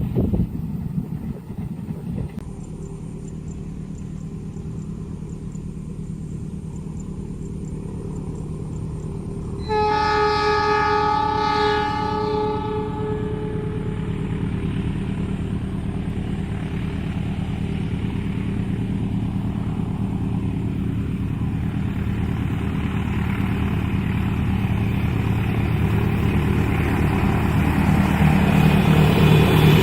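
Diesel passenger train approaching a level crossing, its locomotive engine droning steadily and growing louder. About ten seconds in, the locomotive sounds one long horn blast of around four seconds that fades out.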